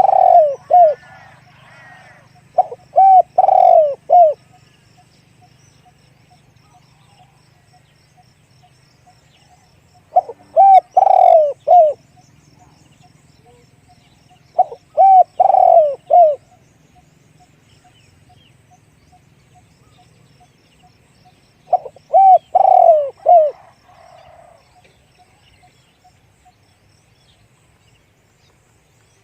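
Spotted dove cooing: five short phrases of a few low, clipped coo notes each, spaced several seconds apart.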